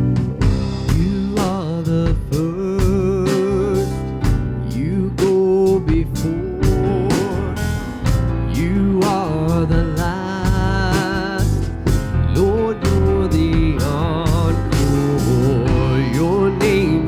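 Live church worship band playing with drums, bass and guitar, a wavering lead melody on top, in a slow country-gospel style.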